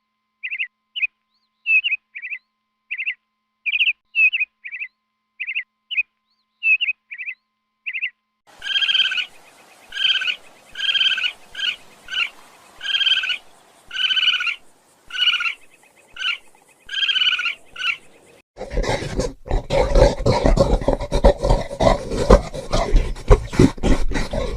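A run of different animal calls: first a bird's short, quick chirps, then a different animal's pitched calls repeating about once a second, and from about two-thirds of the way in a dense, noisy animal sound full of rapid clicks.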